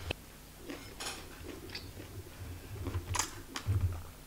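Close-up eating sounds: chewing with a few crisp, sharp crunches, the strongest about three seconds in, a bite into a raw cucumber slice.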